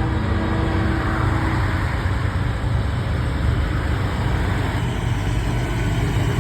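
Semi trucks' diesel engines running with a steady low rumble and road noise.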